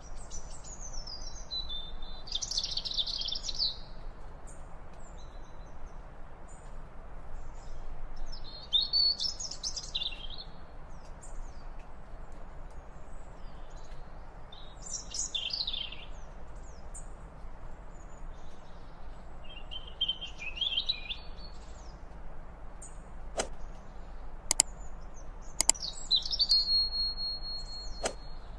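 A songbird singing short phrases of quick chirps and trills, one every five or six seconds, over a steady background hiss. Near the end come a few sharp clicks, and the last phrase ends in a held high note.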